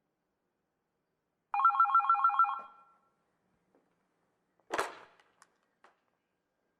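A short warbling electronic ring, pulsing rapidly for about a second, then a brief noisy burst about three seconds later and a couple of faint clicks.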